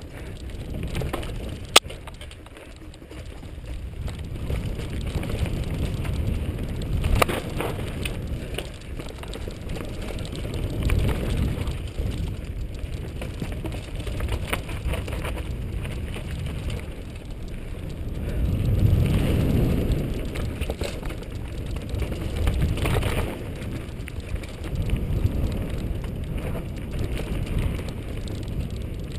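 Mountain bike riding down a dirt trail: a steady low rumble of tyres and wind on the microphone that swells and fades, with the bike clicking and rattling over bumps, including a sharp click about two seconds in.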